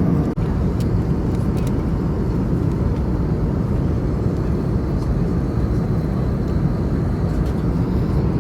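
Steady cabin noise inside an Airbus A320neo in flight: a low rush of airflow and engine hum. It cuts out for an instant about a third of a second in.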